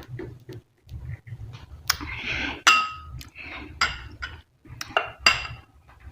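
A spoon or utensil clinking against a plate as food is served up, about five sharp ringing clinks, with soft handling rumbles between them.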